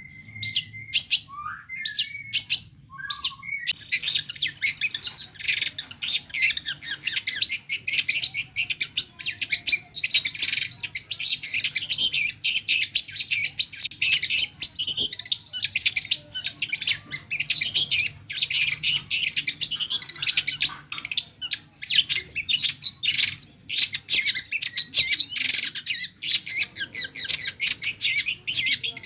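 Long-tailed shrike singing: a few separate calls in the first few seconds, then a fast, unbroken stream of high, rapid-fire mimicked phrases.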